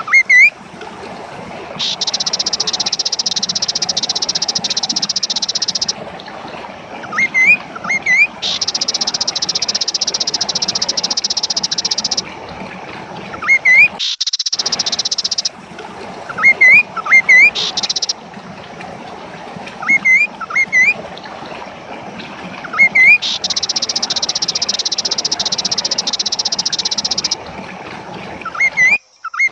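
Kaso-kaso bird song: small clusters of short, sharply rising chirps, alternating with long, high, buzzy trills that last a few seconds each and stop abruptly.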